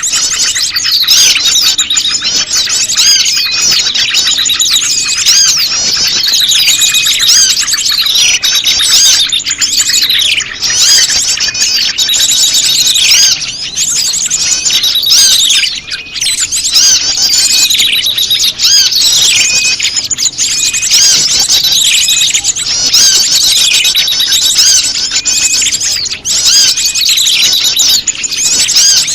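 Bird-lure recording of prenjak lumut calls mixed with a chorus of many small birds. It is a dense, unbroken tangle of high chirps, trills and falling whistled notes, all overlapping.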